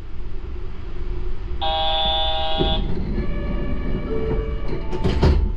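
Yurikamome rubber-tyred automated train giving a steady low rumble. An electronic tone with several pitches sounds for about a second, with fainter tones after it and a few sharp knocks near the end.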